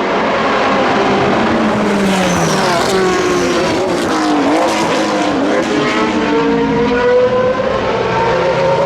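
Several endurance racing cars passing at speed, their engine notes overlapping. Around the middle some notes fall in pitch as cars go by, then one engine's note climbs steadily as it accelerates.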